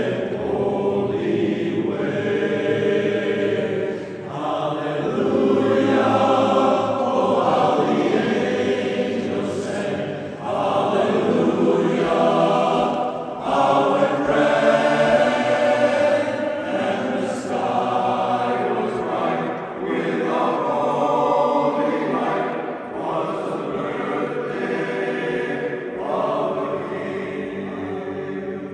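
Barbershop chorus singing a cappella in close harmony, long held chords in phrases with short breaths between them.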